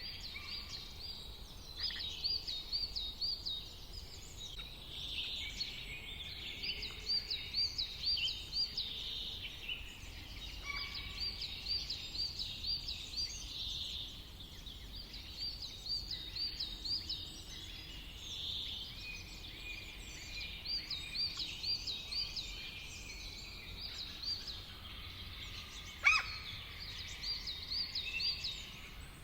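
Songbirds singing over a faint steady hiss. One bird repeats a quick run of rapid, high, up-and-down notes every few seconds while others chirp around it, and a single sharp click sounds near the end.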